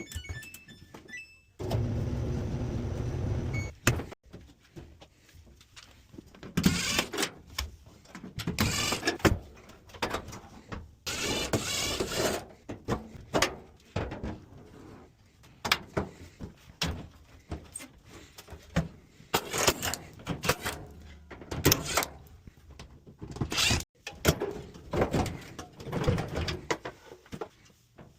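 Samsung clothes dryer running and making its intermittent noise. A steady hum for about two seconds near the start gives way to irregular knocks and rubbing, squeaky sounds that come and go.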